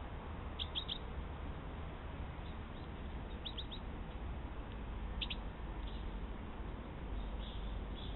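Small songbirds giving short high chirps in quick clusters of two or three, four times, over a steady background hiss.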